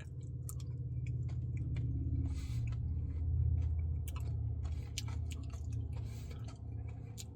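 Close-miked chewing of a Reese's Pieces cookie dough Blizzard, with scattered wet mouth clicks and short smacks over a low, steady hum.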